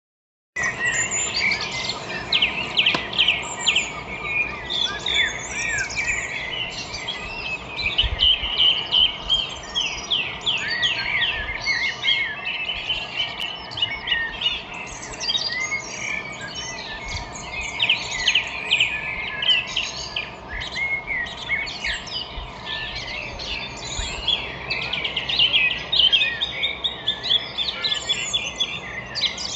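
Many small birds chirping and twittering at once in an early-morning chorus, dense overlapping rapid chirps and trills. It starts suddenly about half a second in, after silence.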